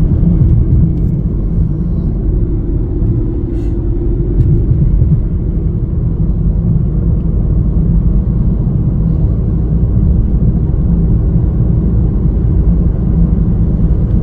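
Steady low rumble of a car driving at road speed: tyre and wind noise.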